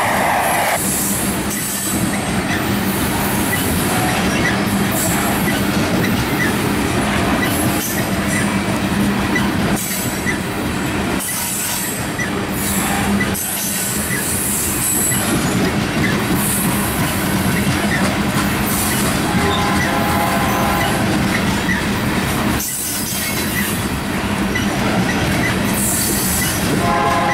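Loaded coal train's steel gondola cars rolling past at trackside: a steady loud rumble of wheels on rail with clicking and repeated high-pitched wheel squeal. Brief high tones come in about two-thirds through and again near the end.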